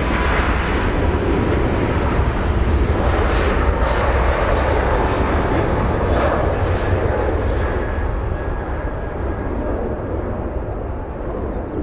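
Airbus A380's four jet engines at takeoff thrust: a loud, steady roar heavy in the deep bass that eases off slowly over the last few seconds as the airliner climbs away.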